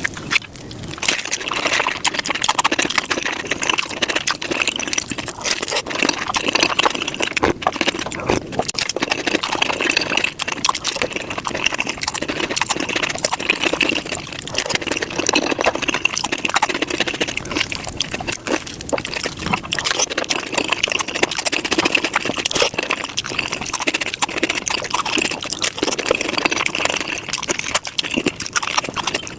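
Close-miked taco eating sped up to five times normal speed: chewing, crunching and wet mouth smacks running together as a dense, unbroken stream of rapid clicks.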